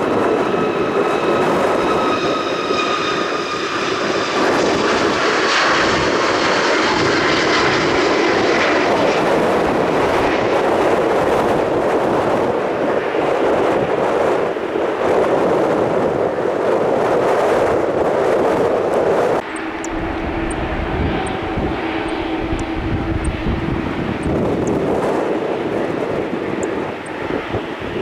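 Airbus A350-900's Rolls-Royce Trent XWB jet engines running as the airliner taxis, a loud rush with a whine that falls in pitch over the first several seconds. About 19 seconds in the sound cuts abruptly to a quieter, steadier engine hum.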